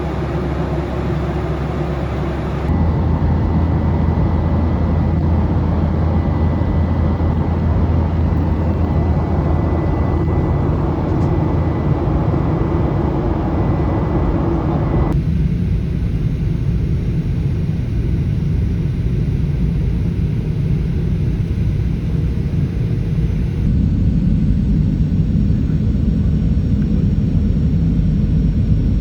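Steady rumble of a moving vehicle, loud and unbroken, with a low hum. The sound changes abruptly twice, as one clip cuts to the next.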